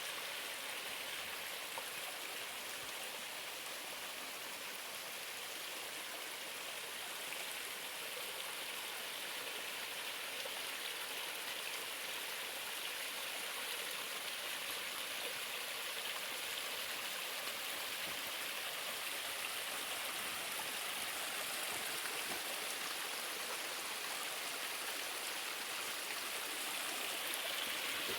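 Steady rushing of a running stream, an even water hiss that grows gradually a little louder.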